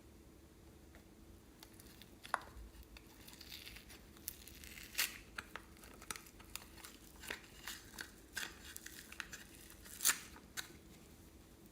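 Slime being handled and squeezed, giving off irregular sticky crackles and small pops, the sharpest about two, five and ten seconds in.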